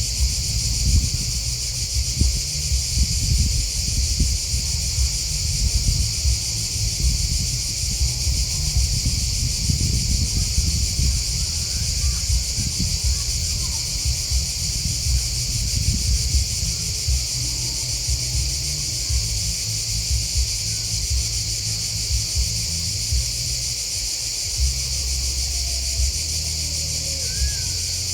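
A dense, continuous chorus of grasshoppers and crickets chirping, a steady high-pitched shimmer that never lets up, over an uneven low rumble.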